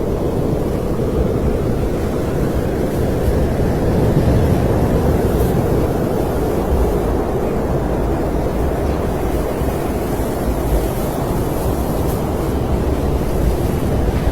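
Snowstorm wind blowing steadily, a low rushing rumble with a faint hiss above it and no breaks.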